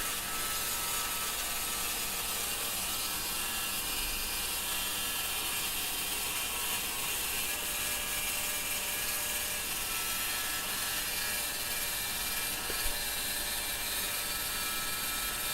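Steady, even hiss of background noise with no distinct working sounds, and one faint tick about thirteen seconds in.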